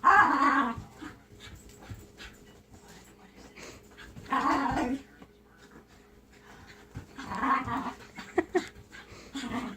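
Puppy panting and growling in four short, noisy bursts separated by pauses, as he chases his tail.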